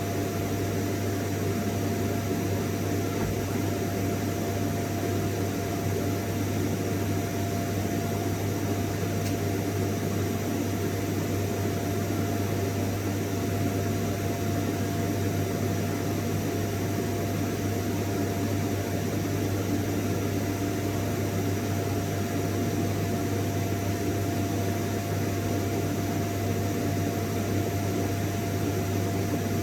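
Vacuum cleaner running steadily: a constant rush of air with a low motor hum and a steady whining tone above it.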